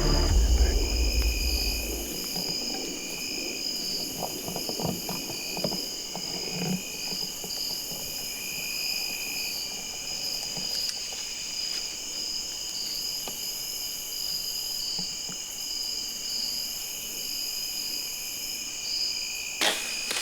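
Evening insect chorus of crickets and similar insects: steady high trilling at several pitches, some of it pulsing. A music bed fades out in the first couple of seconds, and there is a sharp click near the end.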